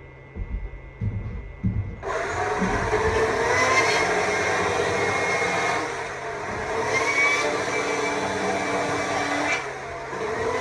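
Stihl MSA 200 C battery chainsaw: after a pause with a few low knocks, it starts up about two seconds in and runs, its electric whine rising and dipping in pitch as the chain bites into the wood while carving.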